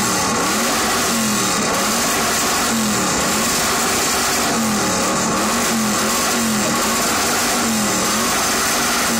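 Sports car engine revved over and over, the pitch climbing and dropping back about once every second and a half, loud and steady throughout.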